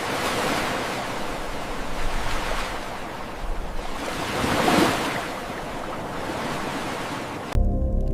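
Ocean waves washing in as a rushing hiss, swelling about two seconds in and most strongly around five seconds. Music cuts back in abruptly near the end.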